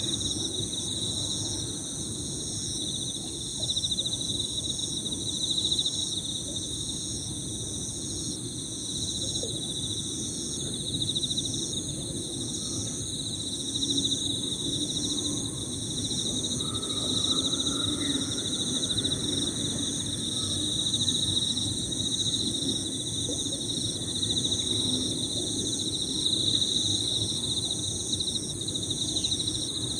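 Emma field crickets trilling in overlapping high-pitched chirps, with other insects singing steadily higher still. A few faint small-bird calls come midway, over a low steady rushing underneath.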